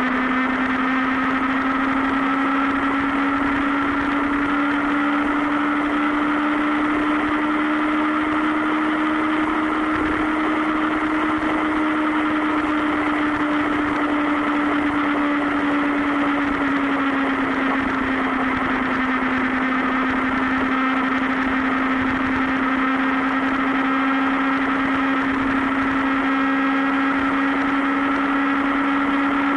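Sport motorcycle engine at a steady cruise, its note holding nearly constant, rising slowly and then dropping slightly just past halfway.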